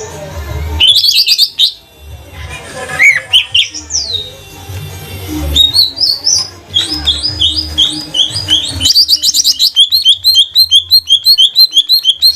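Cucak ijo (greater green leafbird) singing loudly in varied whistled and chirped phrases. Over the last three seconds the song becomes a fast run of repeated notes, about four or five a second.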